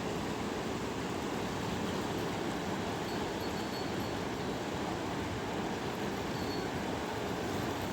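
Steady rushing of a mountain river, an even noise with no breaks.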